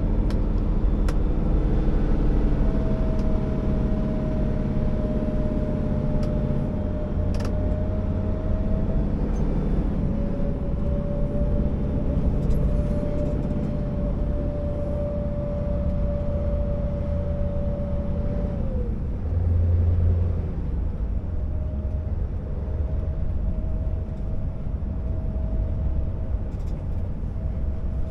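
Scania R650 timber truck's V8 diesel engine running, a steady low rumble with a steady whine over it. The whine drops away about two-thirds of the way through and comes back a couple of seconds later, with a brief low surge in between.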